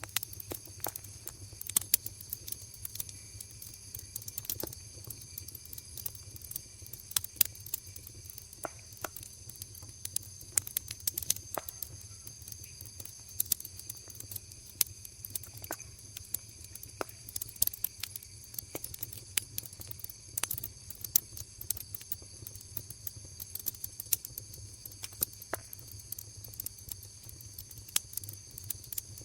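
Wood fire in a kagaribi fire basket crackling, with frequent sharp pops at irregular intervals, over a steady high-pitched chorus of autumn insects and a low rumble.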